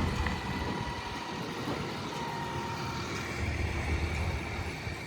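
Pickup truck engine running at low speed as the truck is maneuvered, a steady low hum that grows a little stronger about three seconds in.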